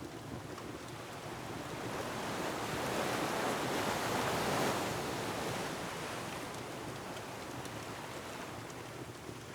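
An ocean wave surging in and washing back: a rush of surf that builds for a couple of seconds, peaks near the middle and fades away.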